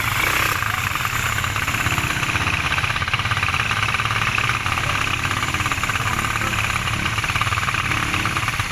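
ATV engine running steadily, its firing pulses coming in a fast, even chug at a constant level.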